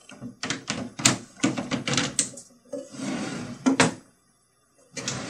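Plywood cabinet drawers being pulled open and pushed shut by their new pulls: a quick run of sharp wooden knocks and clatter, then a sliding rush ending in sharp knocks as a drawer shuts, and another knock near the end.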